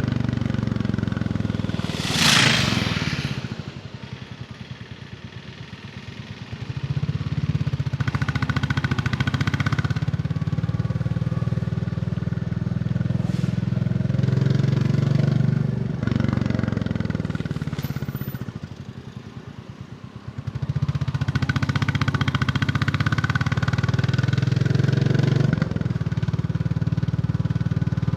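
Royal Enfield Bullet 350's single-cylinder engine pulling steadily under throttle on the move. Twice the rider rolls off and the engine falls quiet for a few seconds before pulling again. A short loud rush about two seconds in.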